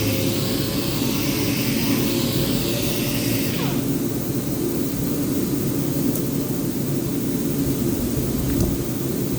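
Power sander running steadily on the top. The high hiss of the sanding drops away suddenly a little over a third of the way in, and the motor keeps running with a lower hum.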